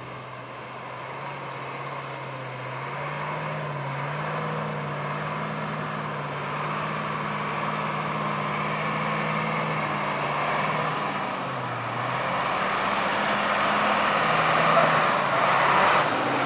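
Ural 4320 army truck's diesel engine running under load, its note rising and falling with a dip about two-thirds of the way through. It grows louder toward the end.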